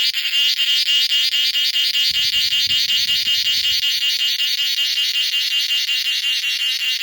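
Cicada calling: a loud, high-pitched buzzing song broken into rapid, even pulses, several a second.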